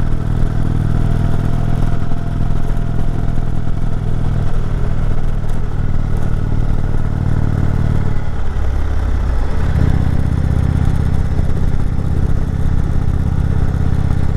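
Motorcycle engine running steadily while climbing a mountain road in second gear. About eight seconds in the engine note drops away for a second or so, as the throttle eases, then picks back up.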